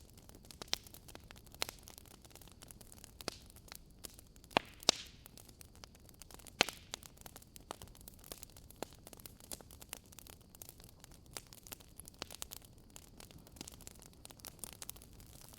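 Firewood burning in a fireplace: a low steady hiss with irregular sharp crackles and pops, the loudest a few seconds in and again near the middle.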